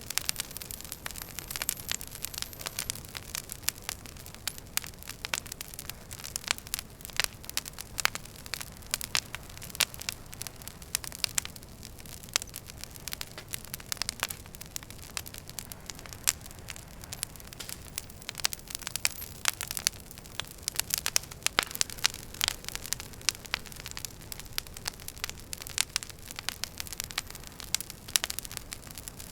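Wood fire crackling in a fireplace: dense, irregular sharp pops and snaps over a steady low hiss.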